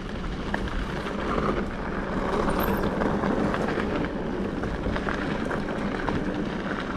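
Mountain bike rolling along a gravel trail: steady tyre and wind noise with scattered small clicks and rattles.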